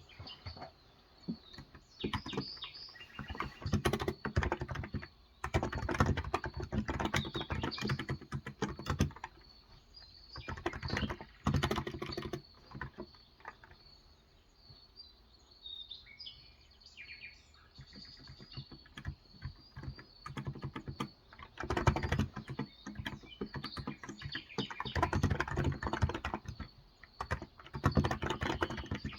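Bursts of fast typing on a Cox Endeavour tenkeyless keyboard with 35 g electrostatic capacitive (non-contact) switches, stopping for several seconds in the middle before starting again. Birds chirp faintly in the background.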